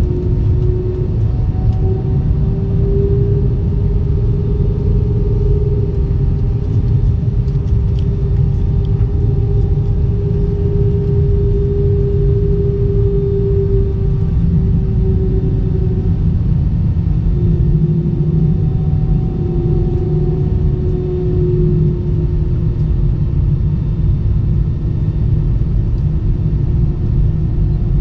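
Steady low rumble of an Airbus A320's jet engines, with a droning hum that wavers slightly in pitch.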